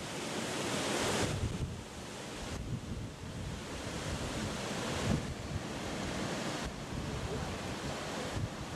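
Blizzard wind blowing hard across the microphone, a steady rushing roar that swells in gusts about a second in and again about five seconds in.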